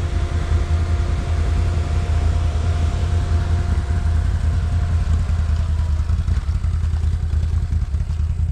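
A riding machine's engine idling steadily, with a heavy low rumble. A fainter steady engine hum above it fades away about six seconds in.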